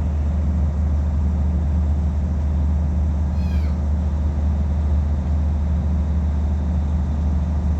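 A kitten gives one short meow about three and a half seconds in, over a steady low machine hum.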